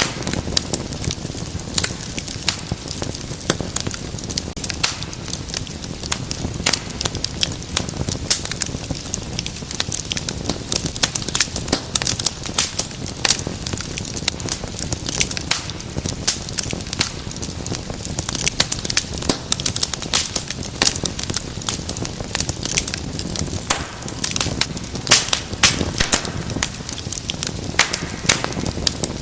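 Wood fire burning in a fireplace: constant irregular crackling and sharp pops over a low rumble of flame, with a flurry of louder pops near the end.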